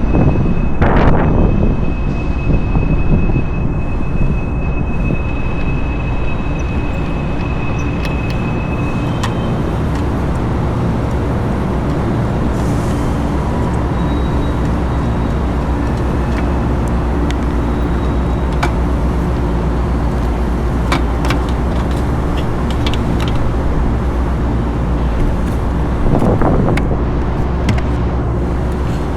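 Steady, loud mechanical drone with a low hum, with scattered light clicks and taps and a brief louder clatter near the end.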